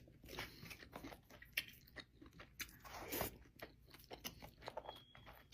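A person chewing a mouthful of baked salmon sushi close to the microphone: irregular soft crunches and wet mouth clicks.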